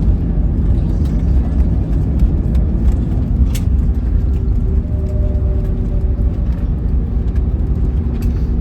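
Cabin noise aboard an Airbus A321neo rolling on the ground after landing: a loud, steady low rumble from the engines and the wheels on the pavement, with a few light clicks and rattles.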